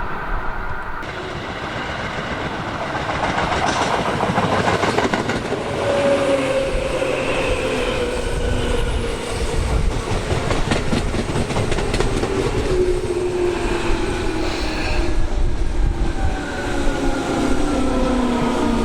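Electric train running on the track, its wheels clattering over rail joints. From about a third of the way in, a motor whine falls slowly and steadily in pitch.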